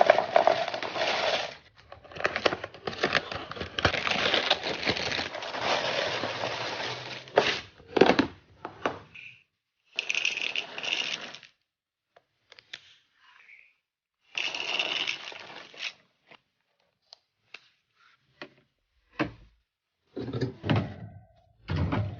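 Food packaging and containers being handled while a pantry and fridge are restocked: a long stretch of rustling and rattling, then separate short rustles and sharp clicks and knocks with pauses between them.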